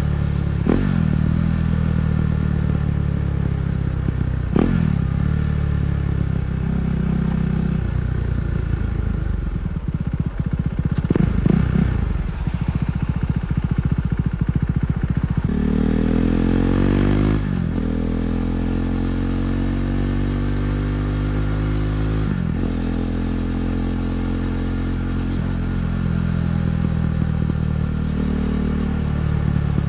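KTM 390 Duke's single-cylinder engine through an Akrapovic exhaust, running while riding in traffic. Its note breaks off sharply several times and rises in a long pull about halfway through.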